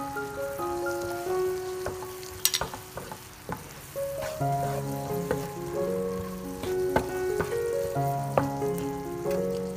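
Diced vegetables and sausage slices sizzling in a nonstick frying pan while a wooden spatula stirs them, with sharp clicks of the spatula against the pan. A light melodic background tune plays over it.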